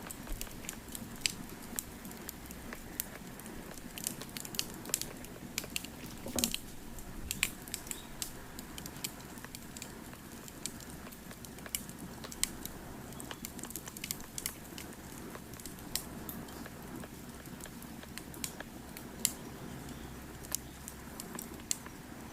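Wood fire crackling: irregular sharp pops and snaps, a few louder than the rest, over a soft steady rush.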